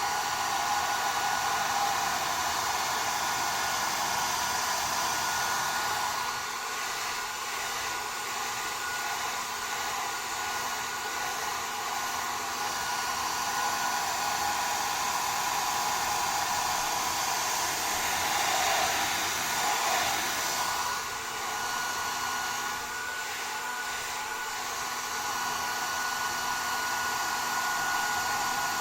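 Two hand-held hair dryers, a Panasonic and a TESCOM, blowing at once: a steady rush of air with a constant high whine, the level dipping and swelling slightly a few times.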